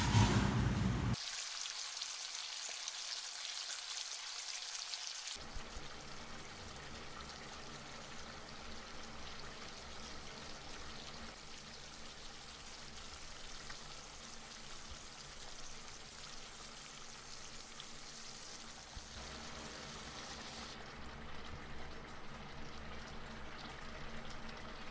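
Soft, steady bubbling hiss of simmering hotpot broth, changing in tone and level at several cuts.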